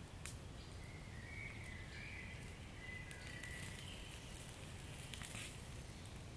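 Wood fire burning with scattered sharp crackles and pops over a low steady rumble. About a second in, a thin hissing whistle from the burning wood runs for a few seconds.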